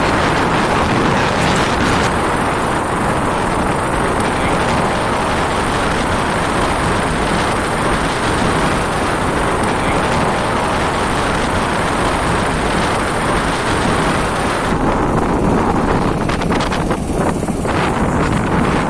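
Steady wind rushing over the microphone of a moving motorcycle, with the bike's running and road noise underneath; the high hiss thins out about three-quarters of the way through.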